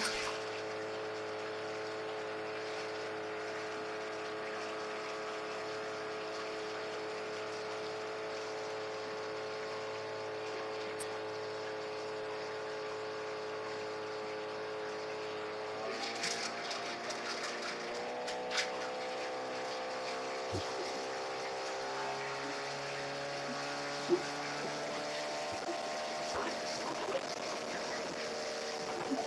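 A motor running at a steady pitch. About sixteen seconds in its pitch jumps and then wavers up and down, as if it is changing speed or load, with a few light knocks.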